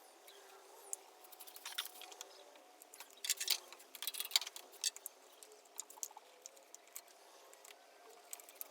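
Scattered light clicks and rattles, densest in the middle, over a faint steady hum.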